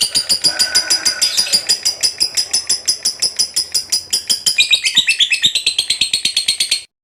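Lovebird giving its long chattering 'ngekek' song: a fast, unbroken run of sharp, high-pitched notes, about ten a second, that stops abruptly near the end.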